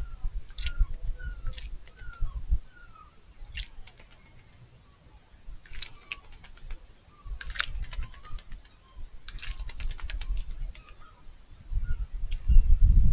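Juvenile common blackbird bathing: about six separate bursts of rapid wing-flutter splashing in shallow water, each a quick run of sharp splashes, with pauses between. A low rumble comes and goes underneath and is loudest near the end, and a few short falling chirps sound in the first two seconds.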